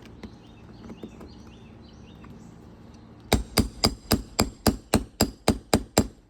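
A roofing hammer rapidly striking a nail-removal tool (roof snake or nail puller) to work out roofing nails under an asphalt shingle: a quick run of about eleven sharp blows, about four a second, starting about three seconds in.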